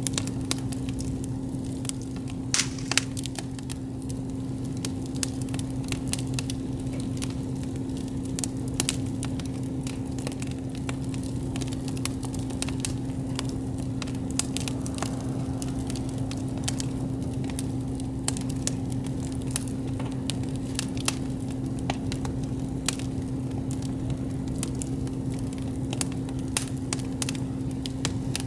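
Wood campfire crackling, with a dense run of small irregular pops and a louder snap about three seconds in, over a steady low hum.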